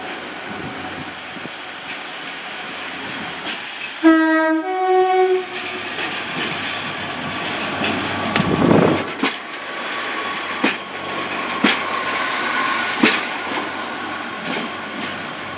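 Class 143 Pacer diesel multiple unit pulling out and sounding its two-tone horn about four seconds in, a short lower note followed by a slightly higher one. The train then runs past with a string of sharp clicks as its wheels pass over rail joints.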